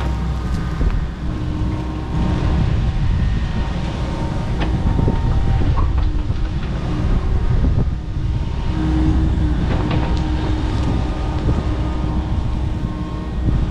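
Kobelco SK85MSR 8-ton excavator working: its diesel engine and hydraulics run under load as a steady low rumble with a faint steady whine, broken by scattered sharp cracks and knocks as it tears out overgrown brush.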